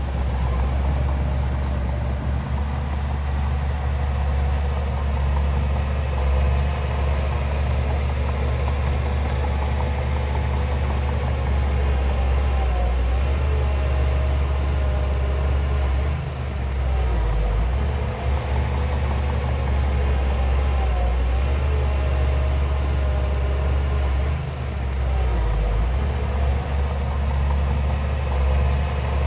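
Heavy diesel engine of earthmoving machinery running steadily with a deep drone, briefly easing off a few times.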